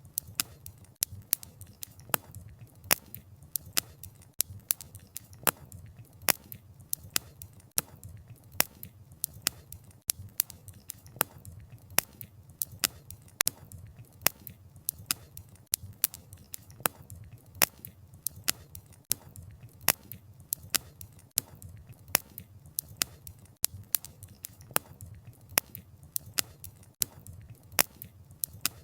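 Wood fire crackling: sharp pops and snaps of burning wood, several a second at uneven spacing, over a low steady rumble of the flames.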